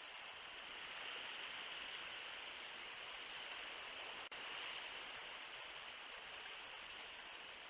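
Steady hiss on the nest-cam microphone, with a momentary dropout about four seconds in; no calls.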